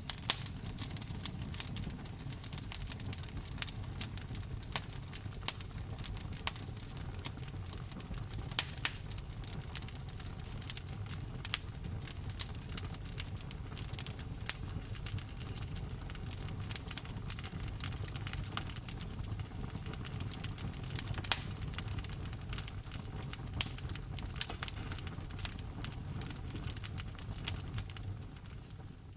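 Wood fire burning in a fireplace, with frequent irregular sharp pops and crackles over a low steady rumble. It fades out near the end.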